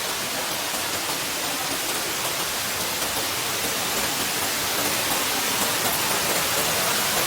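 Waterfall sounding as a steady, even rush of falling water.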